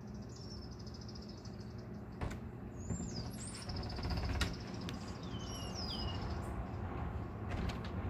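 Small songbirds singing: a high, rapid trill with several short whistled notes that slide downward, broken by a few sharp clicks.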